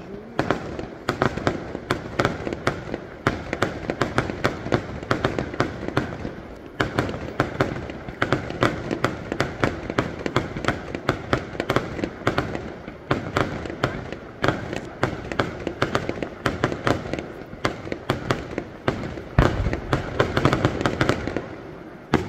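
Fireworks display: a rapid, continuous barrage of bangs and crackles from many small shells bursting, several a second, with heavier, deeper booms near the end.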